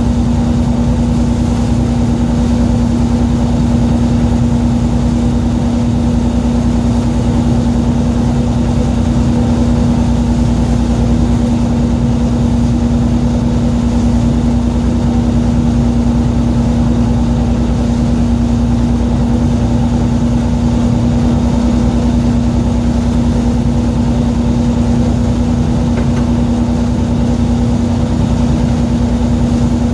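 A boat's engine running steadily at a constant speed, with a loud, even drone.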